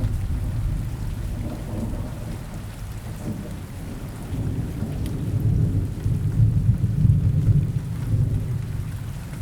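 Steady rain falling in a forest, under a deep rolling rumble of thunder that swells again about halfway through and is loudest a few seconds later.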